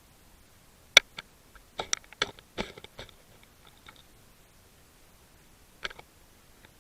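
Sharp clicks and knocks over a quiet background: one loud click about a second in, a quick run of clicks a second later, and one more near the end.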